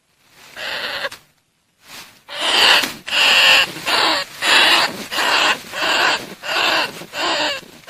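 Decoy recording of bandicoot rat calls, used to lure the rats into traps: a short call, a brief pause, then a steady run of harsh, scratchy squeals, about one every three-quarters of a second.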